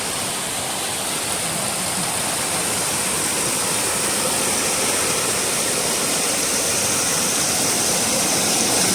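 Waterfall running in full monsoon flow: a steady, even rush of falling water, growing slightly louder toward the end.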